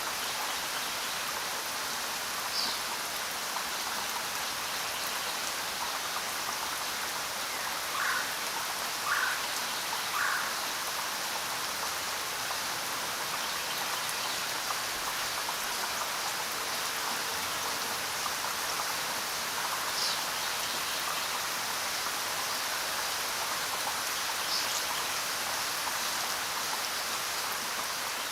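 Steady rain falling, an even hiss throughout. A few brief louder sounds stand out, three in quick succession about a third of the way in.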